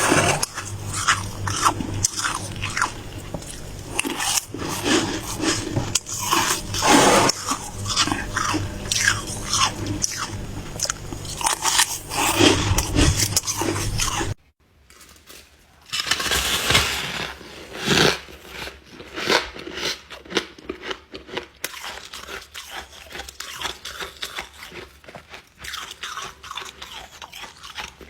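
Close-up crunching and chewing of ice: dense, irregular crunches of teeth biting through and grinding it. Just past halfway the sound stops abruptly for a second or two, then resumes as quieter, finer crunching.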